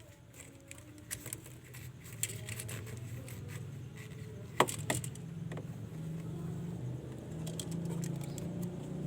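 Light clicks and rattles of washing-machine drain parts being handled and wiped clean, with one sharp knock about four and a half seconds in. A low steady hum comes up under them and grows louder partway through.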